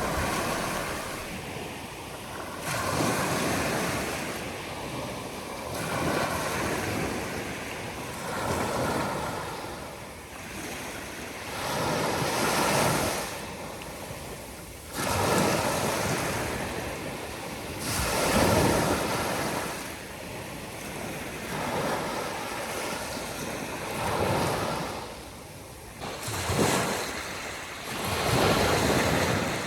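Sea waves breaking on a beach, one surge after another every two to three seconds.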